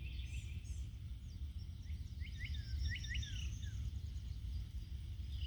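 Wild birds giving a quick series of short chirps about two seconds in, over a steady low outdoor rumble, with a thin, steady high-pitched tone behind them.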